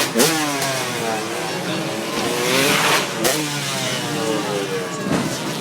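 Two-stroke motocross bikes revving, several engines at once, their pitch climbing and dropping repeatedly as the throttle is worked.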